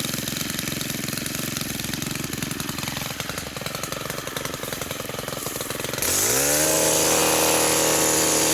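Titan hedge-trimmer multi-tool's small engine running at a fast buzzing idle. About six seconds in it revs up to cutting speed, rising in pitch to a louder, higher steady whine.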